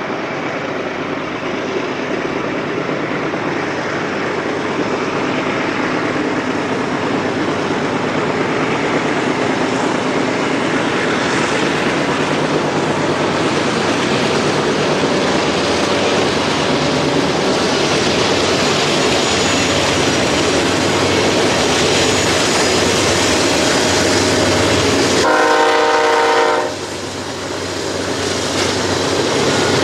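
Diesel freight train passing close by: locomotive engines and wheels on the rails, a steady sound that slowly builds. About 25 seconds in, one multi-tone horn blast of just over a second.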